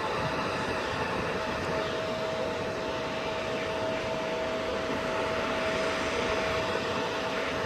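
Jet airliner engines running steadily, with a constant whine over a broad rush.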